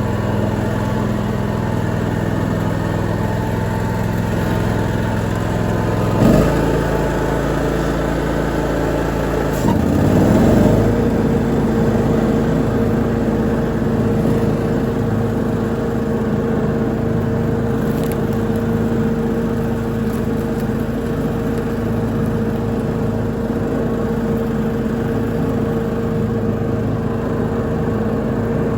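Lawn mower engine running steadily while mowing. About six seconds in there is a brief knock, and around ten seconds the engine note rises briefly, then settles into a new steady tone.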